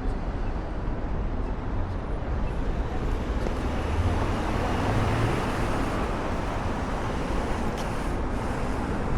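City street traffic: a steady wash of passing cars and engine rumble, swelling a little about halfway through.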